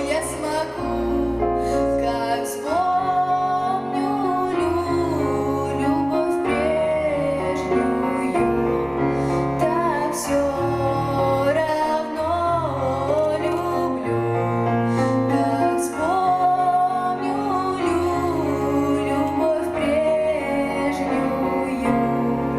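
Solo female voice singing a Russian song with vibrato over instrumental accompaniment with held bass notes that change every second or two.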